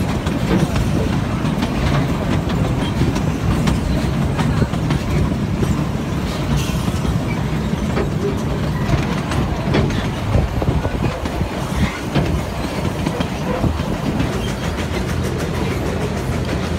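Narrow-gauge train carriages rumbling along the track, their wheels clicking irregularly over rail joints, heard from an open-sided carriage.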